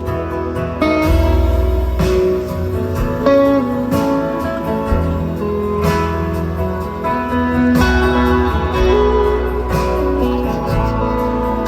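Live band playing an instrumental break: guitars plucked and strummed over a steady bass, with no singing.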